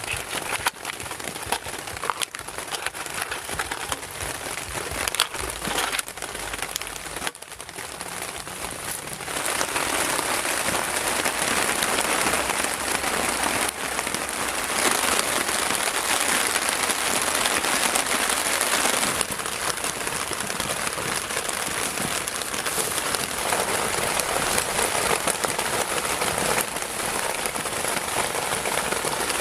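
Heavy rain falling steadily, with scattered small crackles and ticks; the downpour grows louder about ten seconds in and eases a little after about nineteen seconds.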